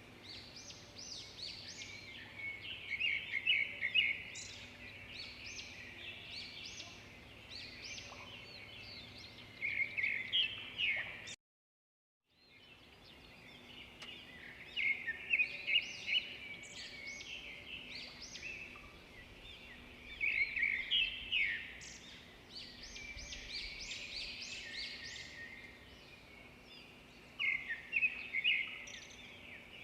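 Several birds singing and chirping in quick, overlapping phrases, with a faint steady low hum underneath. Everything cuts out completely for about a second near the middle, then the birdsong resumes.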